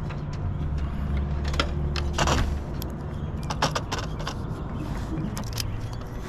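A vehicle engine idling steadily, with scattered clicks and jangles of hardware being handled and a short burst of noise about two seconds in.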